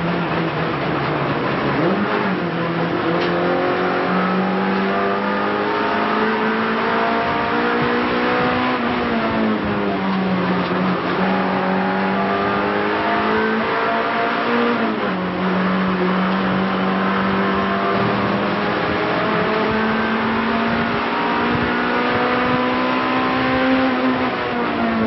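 Renault Clio race car's engine heard from inside the cockpit, loud and steady. Its note climbs slowly and falls back several times, as at gear changes and braking.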